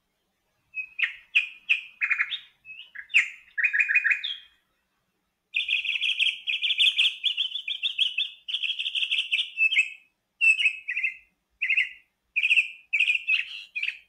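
A songbird chirping: a few separate calls, then a long run of rapid notes, then short calls again.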